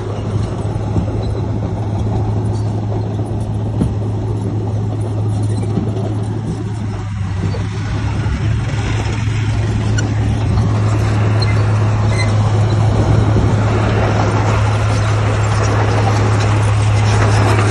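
Heavy construction machine's diesel engine running steadily with a deep, even hum, getting somewhat louder about halfway through.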